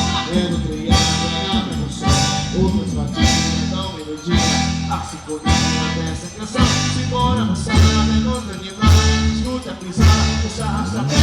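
A Brazilian regional group playing music with singing, with strong bass notes and a heavy accent about once a second.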